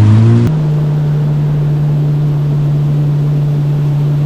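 Jet ski engine, a 2020 Yamaha FX Cruiser HO WaveRunner, running steadily at cruising speed. About half a second in, the drone switches abruptly to a steadier, higher tone and stays there.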